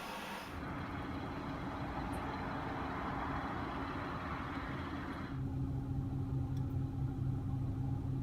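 A vehicle's engine running steadily with a low hum, under a rushing noise that cuts off suddenly about five seconds in, when a deeper hum starts.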